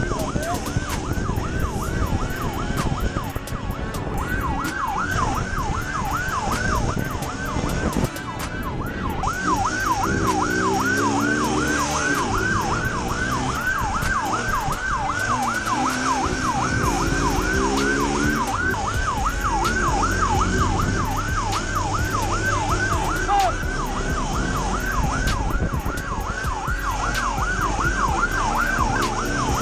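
Police car siren in a fast yelp, its pitch sweeping up and down a few times a second, over engine and road noise from the high-speed chase.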